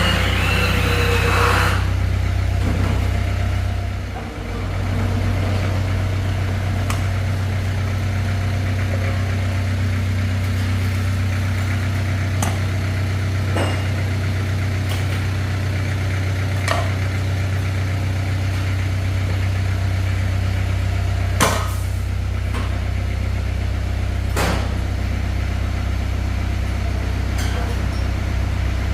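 An engine or motor running steadily at a low hum, with a few sharp knocks or clinks now and then. The loudest knock comes about two-thirds of the way in.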